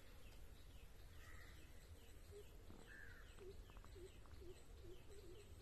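Faint birdsong: a high chirp repeating about three times a second, with a lower wavering call repeating from a bit before halfway on, over a steady low rumble.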